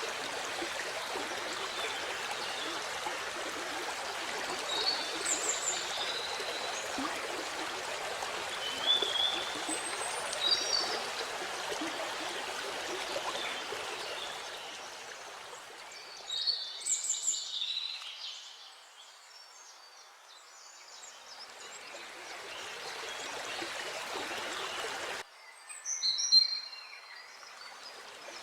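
Waterfall water rushing as a steady hiss, with birds chirping briefly now and then above it. Partway through, the water sound fades almost away and then swells back, and near the end it cuts off suddenly, just before a short burst of bird calls.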